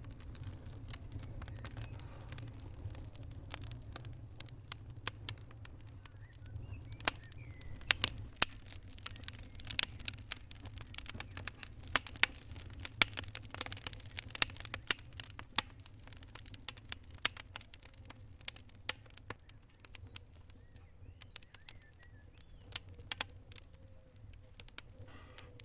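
Fire crackling, with irregular sharp snaps and pops that come thickest through the middle, over a low steady rumble.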